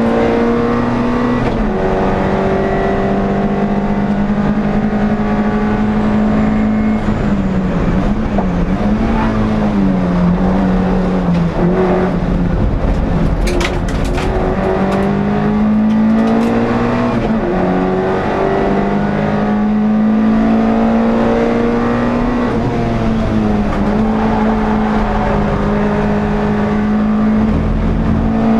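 Onboard sound of an NSU TT race car's air-cooled four-cylinder engine running hard at high revs, its pitch dipping and climbing several times through the lap. A few brief sharp clicks about halfway through.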